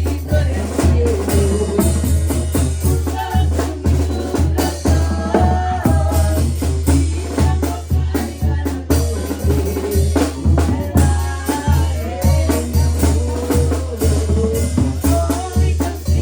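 Mexican brass banda playing: an evenly pulsing bass line under brass melody and a drum beat.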